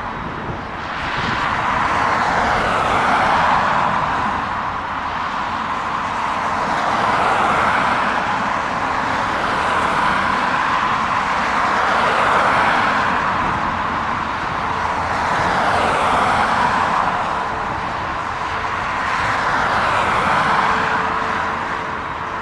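Outdoor vehicle noise swelling and fading about every four or five seconds, with no break.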